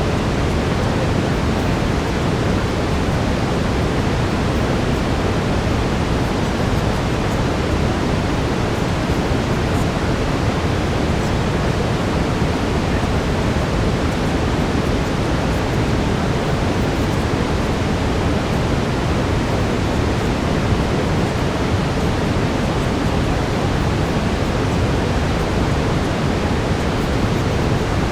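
Steady brown noise, a deep even rushing hiss weighted toward the low end, unchanging throughout.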